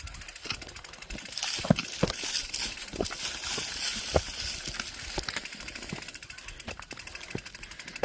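A mountain bike being moved up a bank: scattered knocks and rattles over a steady hiss.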